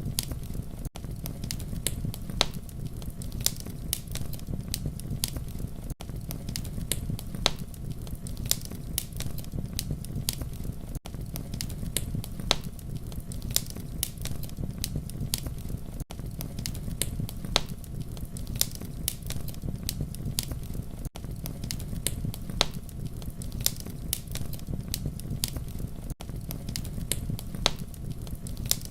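Campfire crackling: irregular sharp snaps and pops over a steady low rumble of burning. The sound briefly drops out about every five seconds.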